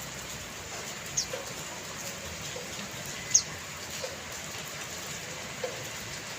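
Steady hiss of falling rain. A bird gives two short, high chirps that drop in pitch, about a second in and again about three seconds in.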